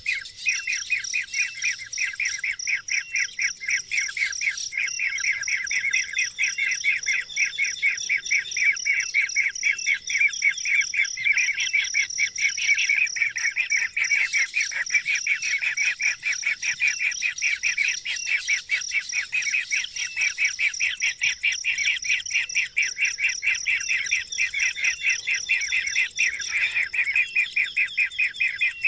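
Bird calls: a fast, steady series of short chirps, about four a second, with a steady high-pitched tone underneath.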